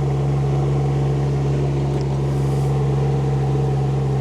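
Small diesel engine of a Chinese mini excavator running steadily at a constant speed, moments after starting.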